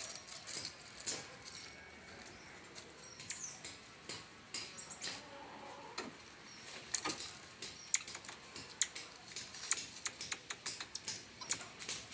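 Marmosets making many short, high-pitched chirps and squeaks in quick, irregular succession.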